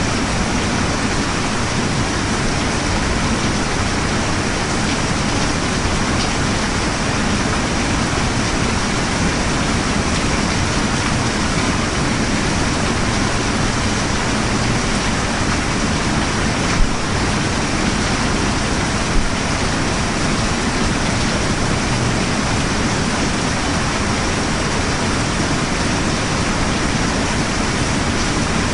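Steady, heavy rain falling, an even hiss and patter throughout, with two brief louder ticks a couple of seconds apart a little past the middle.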